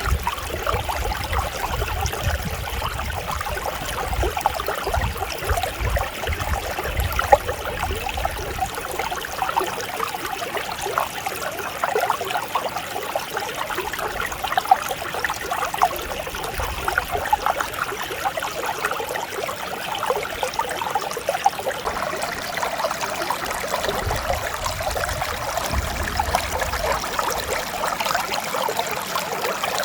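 Mountain stream flowing over rocks, a steady babble of running water. A low rumble comes and goes beneath it.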